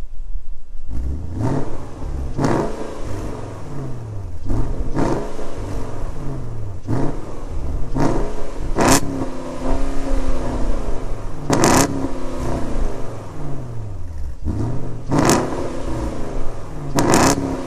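Porsche Cayenne GTS 4.8-litre V8 exhaust as the engine is blipped over and over from idle, each rev climbing and then falling away, with sharp cracks from the exhaust between revs.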